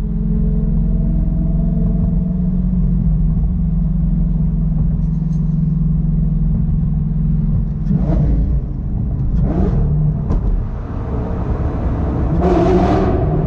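Lamborghini Gallardo's V10 engine running at a steady drone, then revving up in two short rising pulls about eight and nine and a half seconds in, with a louder surge near the end.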